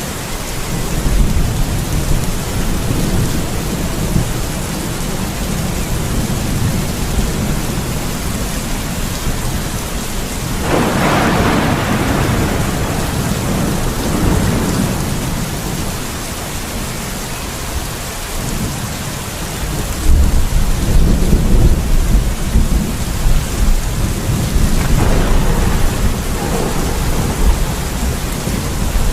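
Steady heavy rain with thunder: a sharp clap about a third of the way in, then long low rolling rumbles through the latter part.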